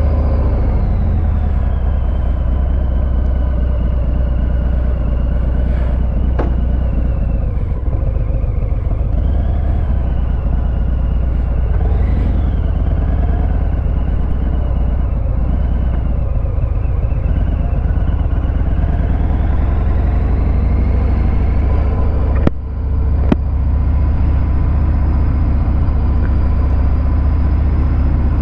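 Harley-Davidson Fat Bob 114's Milwaukee-Eight 114 V-twin, through a Vance & Hines Hi-Output 2-into-1 exhaust, idling steadily just after being started. A few sharp clicks, and a brief dip in the engine sound about 22 seconds in.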